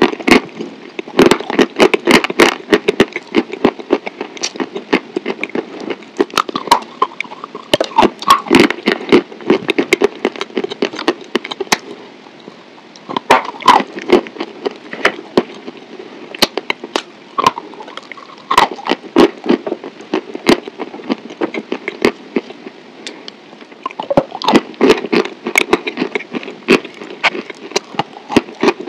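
Close-miked eating: a person chewing and biting food, with wet mouth sounds and sharp crackly clicks that come in bursts and let up for a few seconds now and then.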